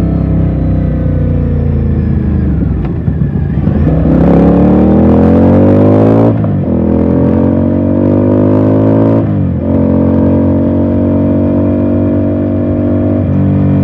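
Ducati Scrambler's air-cooled L-twin engine under way. Revs fall as the throttle is rolled off, then it accelerates hard from about four seconds in, up-shifting twice with a short dip in pitch each time, and settles to a steady cruise for the last few seconds.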